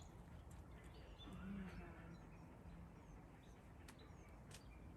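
Near silence: faint outdoor ambience with a few short, distant bird chirps.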